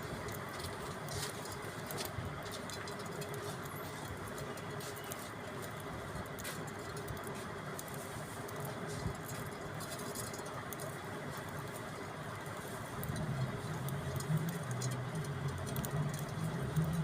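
Pet budgerigars chattering softly, with scattered faint clicks over a steady background noise; a low rumble comes in about thirteen seconds in.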